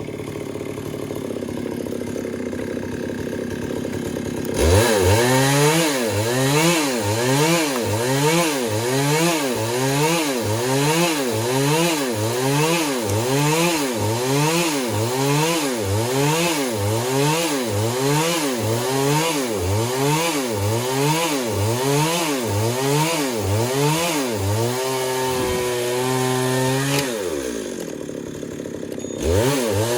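Stihl MS 382 chainsaw idling, then throttled up about four and a half seconds in. For some twenty seconds its engine pitch rises and falls about once a second. The saw holds a steady high note briefly, winds down and revs up again near the end.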